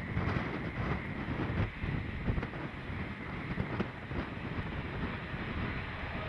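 A train rolling past, a steady rumble with some short clicks, with wind on the microphone.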